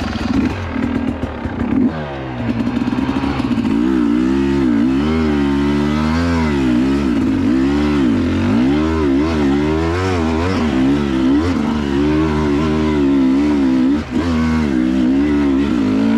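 Dirt bike engine revving up and down over and over under throttle, as the rider works the bike out of a stuck spot on a wet trail. The revs climb after about two seconds and drop briefly near the end.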